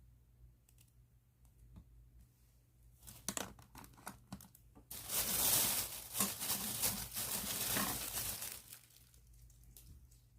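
Plastic bag crinkling as pens are handled in it. A few light ticks, then rustling that swells about five seconds in to a dense, loud crinkle lasting almost four seconds before dying back to faint ticks.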